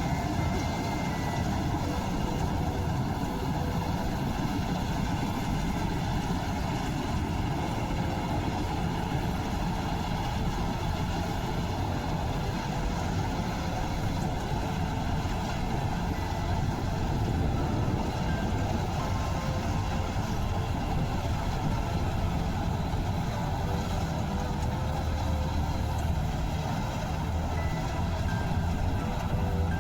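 Heavy farm machinery running steadily, a diesel engine's continuous drone with the clatter of working parts, with no change in load.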